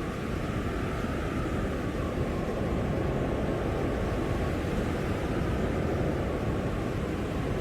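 Strong blizzard wind blowing steadily, a dense rushing noise heaviest in the low end, with no distinct gusts or breaks.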